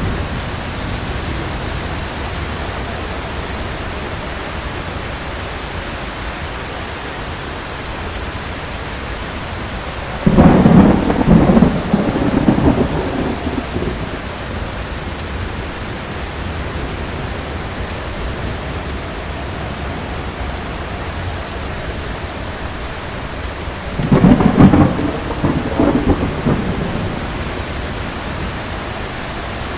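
Steady heavy rain with thunder: two loud, deep rolls of thunder break in suddenly, about a third of the way in and again near the end, each rumbling on for a few seconds.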